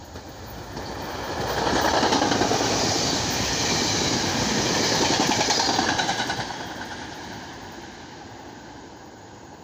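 SEPTA electric multiple-unit commuter train passing close by, its wheels clattering on the rails. The sound builds, stays loud for about four seconds as the cars go by, then fades as the train moves away.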